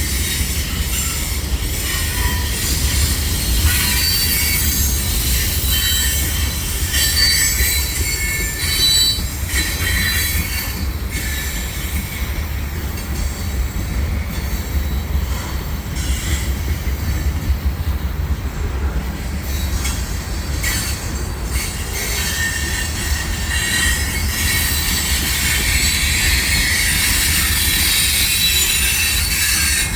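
Freight cars of a CN mixed manifest train rolling steadily past on a tight curve: a continuous deep rumble, with the wheels squealing in high tones as they grind around the curve and scattered clicks from the rail joints. The squeal fades somewhat in the middle and grows louder again near the end.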